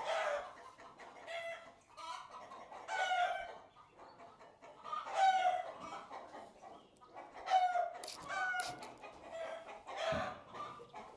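Chickens calling over and over, with a burst of loud calls every two to three seconds.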